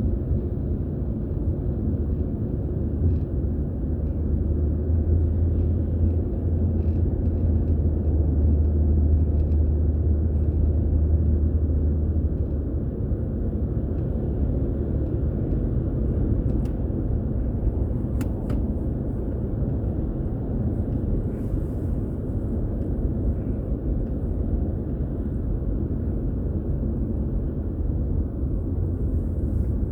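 Car on the move: a steady low rumble of road and engine noise, with a stronger low drone for several seconds near the start. A few faint clicks come about two-thirds of the way through.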